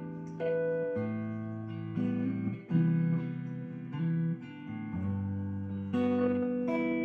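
Guitar playing, with a new chord or note struck about once a second and left to ring.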